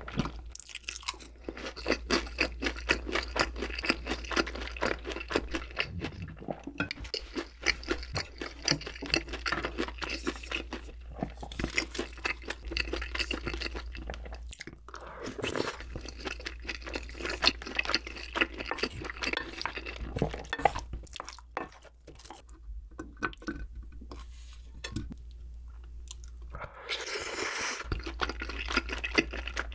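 Close-miked chewing of braised chicken and wide glass noodles in sauce (jjimdak): dense, rapid wet mouth clicks, broken by short pauses, with a brief louder rush of noise near the end.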